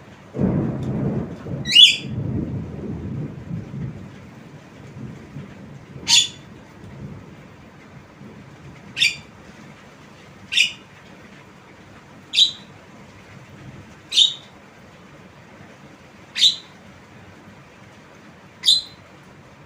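Javan myna giving short, sharp downward-sweeping calls, eight of them about every two seconds. A low rumble runs through the first few seconds and fades.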